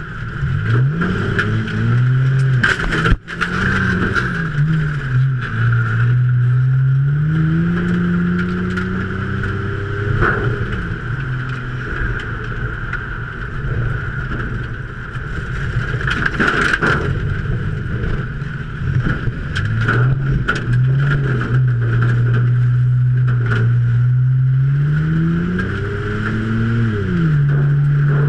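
Race car's V6 engine heard from inside the cabin, pitch climbing under full throttle and dropping back as it lifts off, several times over. A steady high whine runs alongside it, with scattered rattles and clicks.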